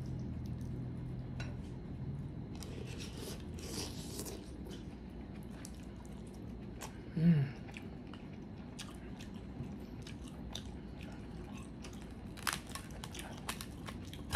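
Close-miked chewing of seafood, with soft, scattered clicks and taps from fingers handling shells and food. A brief hum from the eater comes about seven seconds in.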